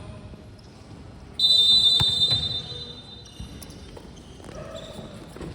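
Referee's whistle: one long, shrill blast about a second and a half in, over the thuds of a basketball bouncing on a gym floor.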